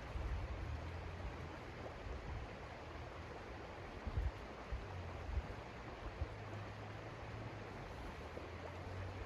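Steady blizzard wind rushing, with a gusting low rumble and a few dull thumps around the middle.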